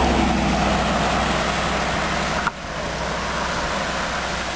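A car passing on the road: its tyre and engine noise is loudest at the start and then fades away.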